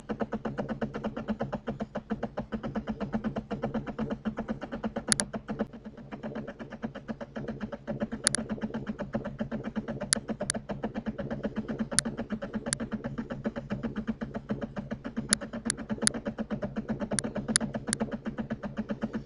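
Sharp computer-mouse clicks, single and in quick doubles and triples, over a steady machine hum.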